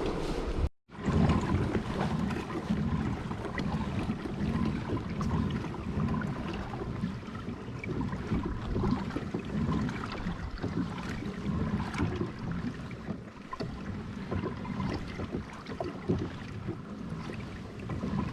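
Water sloshing against a kayak's hull on a choppy sea, with a low swish repeating a little more than once a second and wind on the microphone.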